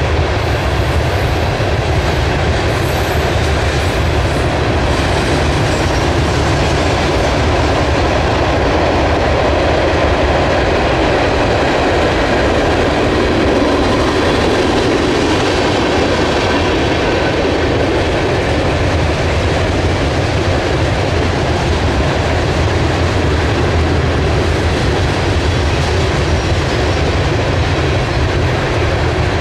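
Freight train of tank cars and covered hopper cars rolling past, a steady noise of the cars' wheels running on the rails.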